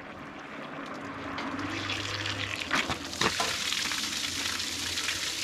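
Water splashing out of a Ford 8N tractor's unhooked radiator hose as the rusty radiator is flushed, building up over the first couple of seconds and then running steadily. A few knocks about three seconds in.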